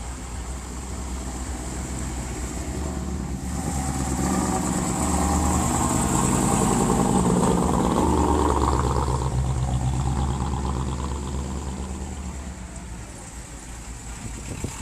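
Classic car engine passing by at cruising speed: a low rumble that grows louder to a peak about halfway through and then fades away.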